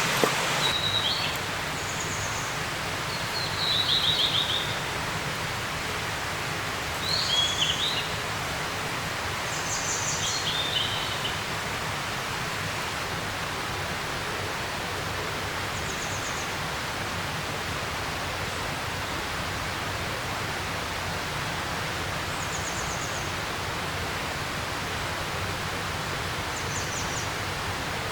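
Small songbirds calling over a steady rushing outdoor hiss: short high chirps scattered throughout, and a few quick trilled phrases in the first ten seconds or so.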